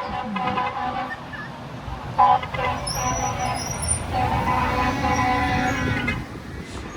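Truck air horns blowing as parade trucks pass: a long blast at the start, a short loud toot about two seconds in, then another long blast over the low rumble of a diesel engine.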